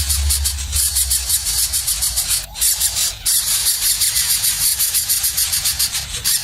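Nestling birds begging, a dense chorus of rapid, high-pitched cheeping that breaks off briefly twice near the middle. A low rumble sits under it at the start.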